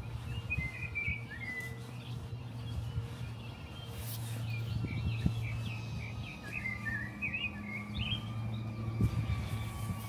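Small birds chirping, a few calls near the start and a busier run of quick chirps in the middle, over a steady low hum.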